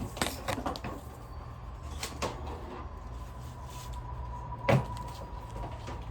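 A few scattered knocks and clicks of hard parts being handled, the loudest just before five seconds in, over a faint steady hum.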